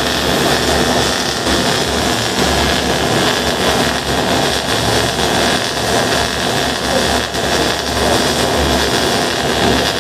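Electric arc welding: the arc burns continuously with a steady, loud crackling hiss.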